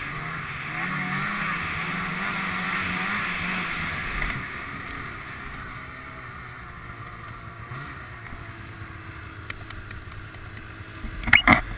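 Snowmobile engine running, louder for the first four seconds and then easing off to a lower, steadier hum. A short, loud burst comes near the end.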